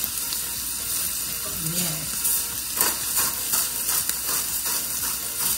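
Tuna, bell peppers and mushrooms sizzling steadily as they sauté in an enamelled pan.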